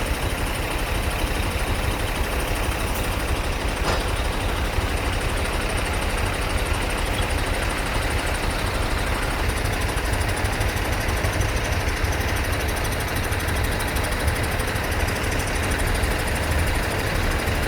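Vehicle engine running steadily with a low rumble under a continuous wash of noise.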